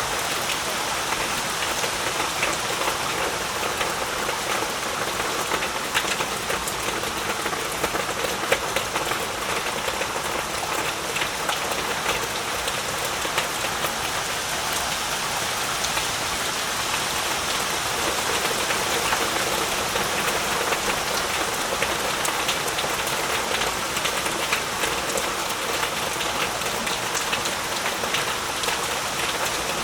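Heavy rain falling steadily, a dense even hiss with the patter of individual drops hitting surfaces.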